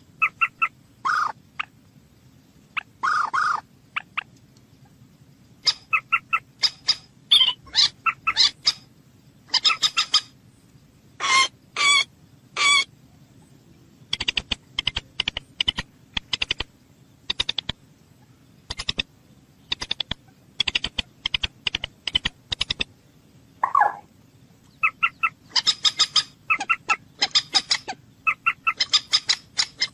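Moorhen calling over and over: runs of short, sharp calls in quick succession, broken by a few longer calls.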